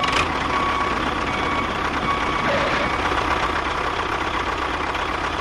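A mini tractor's small engine running steadily, with a fast low chugging and a faint steady whine.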